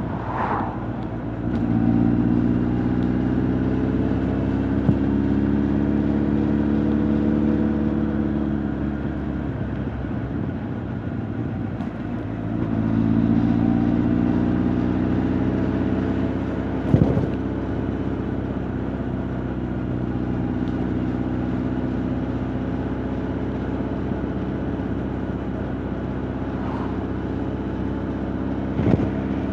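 Honda CB1300 Super Bol d'Or's inline-four engine and exhaust running on the move. It pulls hard for several seconds, eases off around nine seconds in, picks up again a few seconds later and then settles to a steady run. Two short sharp clicks come partway through and near the end.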